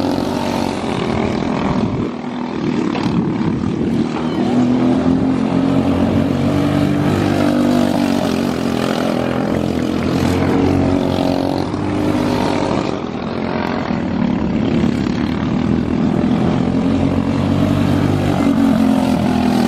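Outlaw dirt-track kart engines running hard through a race, their pitch rising and falling with the throttle.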